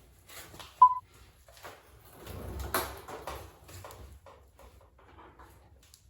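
A short, high single-pitched beep, then a series of scattered light knocks and clicks.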